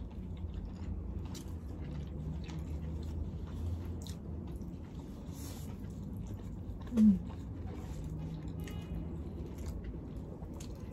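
People eating rice dishes with their hands: soft chewing and small mouth and finger clicks. One short voiced hum comes about seven seconds in.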